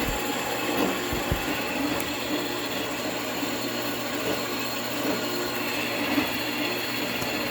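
Shielded metal arc (stick) welding arc crackling and hissing steadily while tacking a steel frame.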